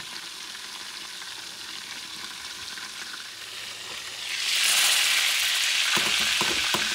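Meatballs frying in oil in a lid-covered skillet, a steady muffled sizzle. About four seconds in the lid is lifted and the sizzle turns much louder and brighter, with a few light knocks near the end.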